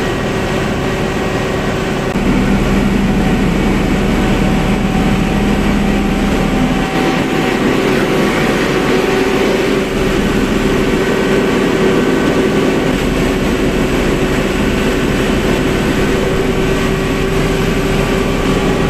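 Deutz BF8M1015 V8 turbodiesel generator engine running steadily under a dense, loud hum; the sound steps up slightly about two seconds in.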